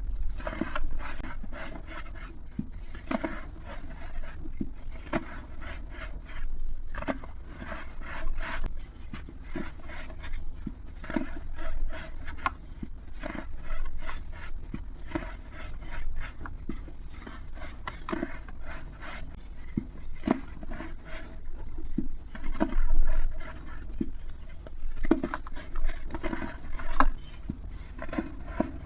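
A dry, brittle material crumbling and crackling as it is crushed, in repeated swells of crackle every second or two.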